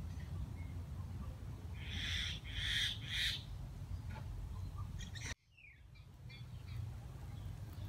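A bird calling three times in quick succession over a steady low rumble; the sound drops out abruptly about five seconds in, then a quieter background returns.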